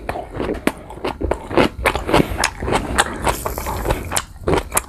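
Close-miked crunching and chewing of raw green guava, a rapid run of crisp crunches. About three seconds in, a seasoning bottle is shaken briefly over the fruit, a short hiss.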